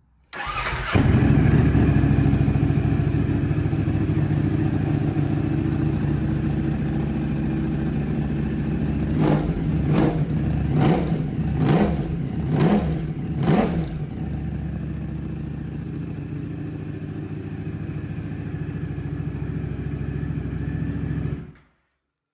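Ducati Streetfighter V4's V4 engine, breathing through twin Arrow exhaust cans, cranks and catches warm, then idles. About nine seconds in come half a dozen quick throttle blips. It settles back to idle and is switched off abruptly near the end.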